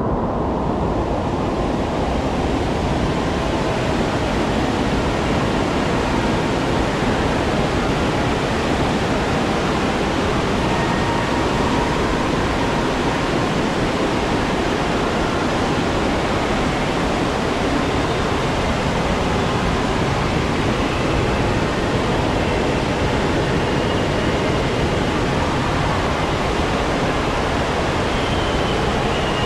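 Rushing water of a water-park rapid-river ride, a steady loud noise without breaks.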